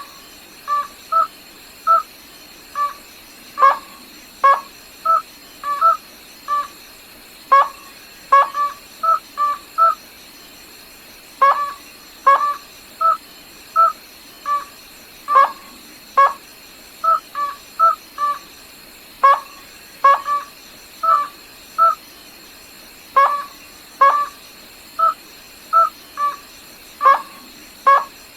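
Rail (gà nước họng trắng) calling: short clipped pitched notes repeated in phrases every three to four seconds, each phrase led by a louder note and followed by several quicker, softer ones. A faint steady high whine runs underneath.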